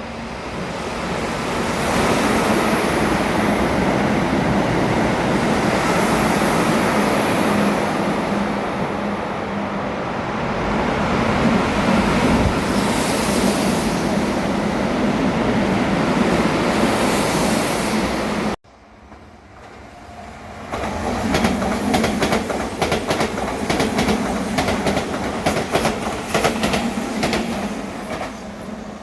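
Keihan Electric Railway express trains passing through a station at speed without stopping: a long steady rush of wheels and motors with a low hum, cut off suddenly about 18 seconds in. Then a second train rises in, its wheels clattering rapidly over rail joints.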